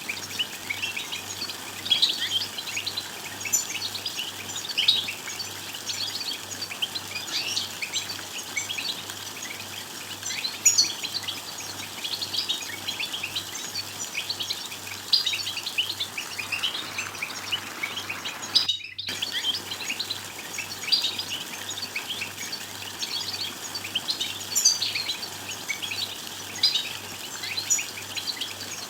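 A group of European goldfinches twittering, with a dense stream of rapid, high-pitched chirps and trills. The sound drops out completely for a split second about two-thirds of the way through.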